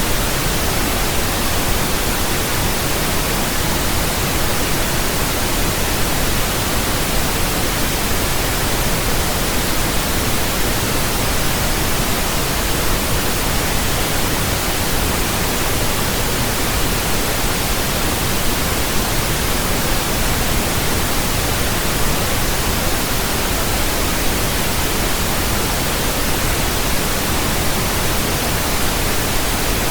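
Steady synthetic pink noise: an even, unchanging hiss with a soft low rumble beneath it.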